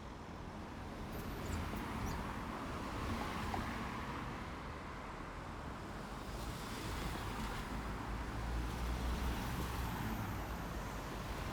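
Road traffic driving past: a steady rush of engines and tyres with a low rumble, swelling twice as vehicles go by.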